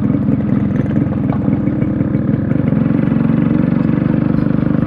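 Yamaha RX100's single-cylinder two-stroke engine running while the motorcycle is ridden, with a rapid, even exhaust beat that becomes more regular about three seconds in.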